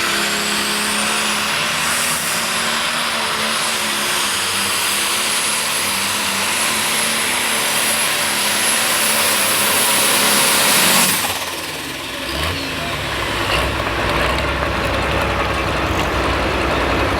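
Turbocharged super stock pulling tractor engine running flat out under load, with a high turbo whine that climbs then holds steady. About eleven seconds in, the full-power sound cuts off sharply as the driver backs off at the end of the pull, leaving the engine rumbling at low speed.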